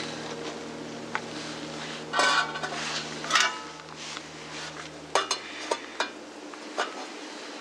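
Metal cookware and utensils clinking and knocking together in a series of separate sharp strikes.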